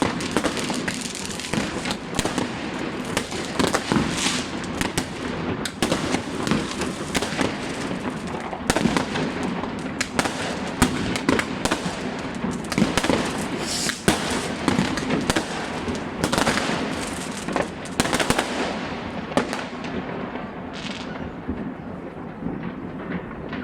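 New Year's fireworks and firecrackers going off all around: a continuous barrage of overlapping bangs, crackles and whistling rockets, thinning a little near the end.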